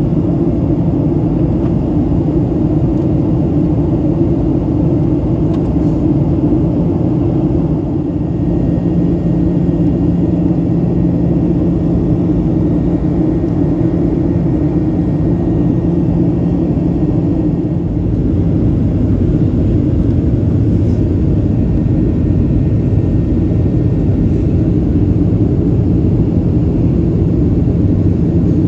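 Steady low rumble inside the cabin of a Boeing 737-800 in flight: engine and airflow noise heard from a passenger seat. A low hum stands out for a stretch midway.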